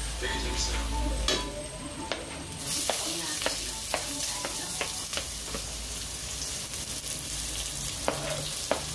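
Chopped garlic sizzling in hot oil in a stainless steel pot: a steady frying hiss, with scattered clinks and scrapes from a spoon and a plastic cutting board.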